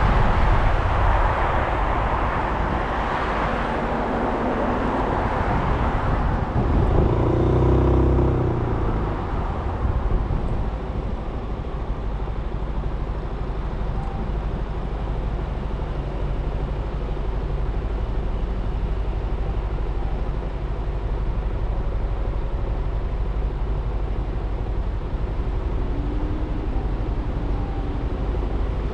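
Suzuki Burgman 400 scooter riding in traffic, heard from a camera mounted on the bike: a wind and road rush with the engine running underneath. The rush is loudest for the first several seconds, a louder low rumble comes about seven seconds in, and then the sound settles to a steadier, quieter ride noise.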